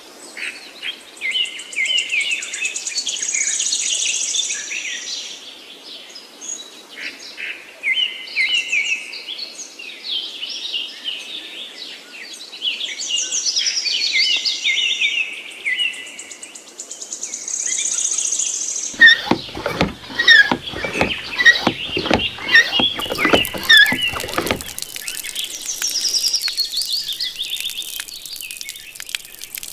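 Small birds chirping and singing throughout, in repeated short phrases. Past the middle, a quick irregular run of knocks and taps lasts several seconds, louder than the birdsong.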